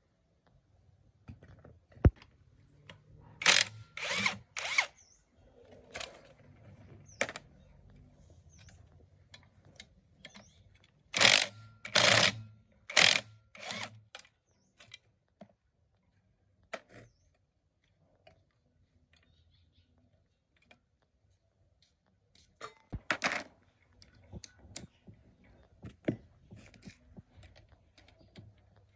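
Power drill run in short bursts of under a second, in three groups: a few about three to five seconds in, a louder run of four around eleven to fourteen seconds, and more around twenty-three seconds. Sharp clicks and tool handling come between the bursts.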